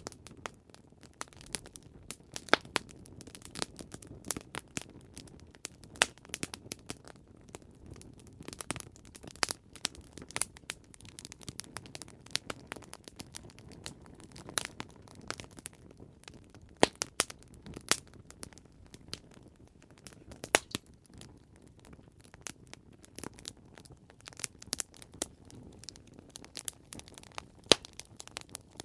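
Campfire crackling: irregular sharp pops and snaps of burning wood, a few much louder than the rest, over a low steady rumble of the flames.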